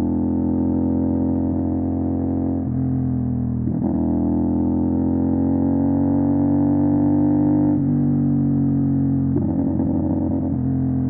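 CFMOTO 450 SR's parallel-twin engine through an MSH G6 full-system exhaust under way. Its pitch climbs slowly under throttle and drops sharply at gear changes, about 3, 4 and 8 seconds in, with a rougher stretch near the end.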